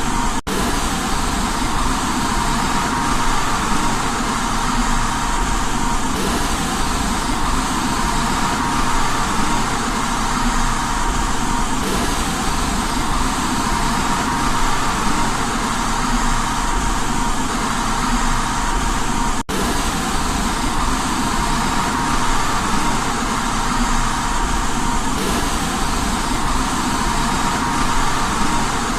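Steady white noise for baby sleep: an even, unbroken hiss with a faint steady tone in it. It cuts out for an instant twice, once just after the start and once past the middle.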